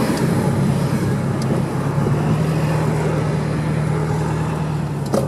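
Exhaust of a 2014 Subaru WRX STI with a Kakimoto aftermarket muffler, its turbocharged flat-four running steadily with an even low drone. A short click comes near the end.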